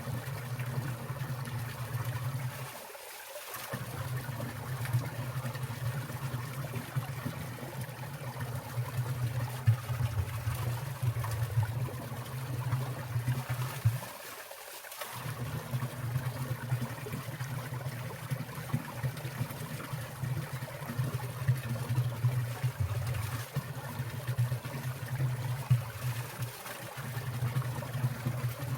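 Mountain stream water trickling and splashing steadily over rocks, with frequent small splashes standing out; its low rumble drops away briefly twice.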